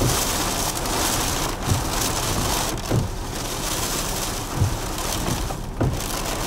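Heavy hurricane rain pouring down in strong wind, a dense steady hiss. A few short low thumps come at intervals of about a second or so.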